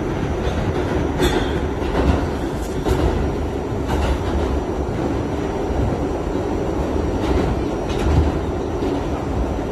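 Kawasaki R68A subway car running at speed: a steady rumble of wheels on rail, with irregular sharp clacks from the wheels passing over the track.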